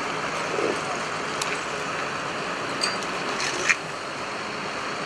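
Steady outdoor background noise from traffic and vehicles. A few short clicks are heard, with a sharper, louder one near the end.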